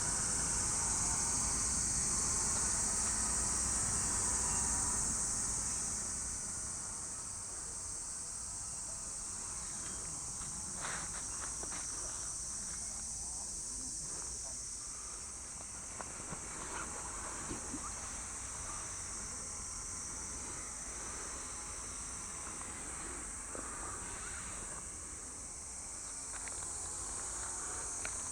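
Steady high-pitched chirring of insects such as crickets, louder for the first five seconds or so, over a low background rumble that eases off after that. A few faint clicks come later.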